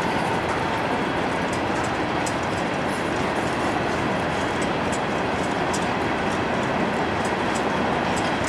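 Freight train cars, covered hoppers and tank cars, rolling past on the rails: a steady, loud rumble and rattle of wheels on track, with light high ticks coming through every so often.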